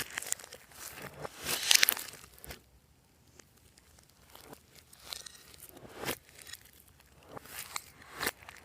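Slime being squished and stretched by hand, giving sticky crackling and popping sounds in irregular bursts, with a quieter stretch about three seconds in.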